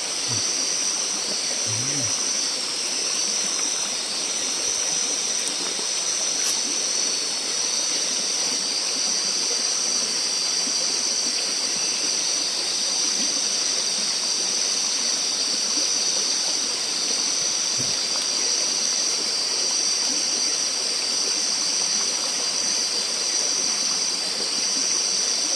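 Steady rushing of a forest river, with a continuous high-pitched hiss over it.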